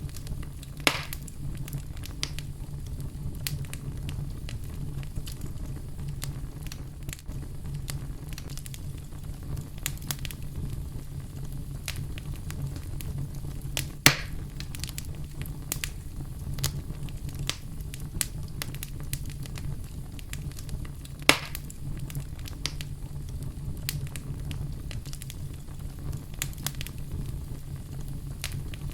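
Wood fire burning in a fireplace: a steady low rumble of flames with constant small crackles and three louder pops, about a second in, at about 14 seconds (the loudest) and at about 21 seconds.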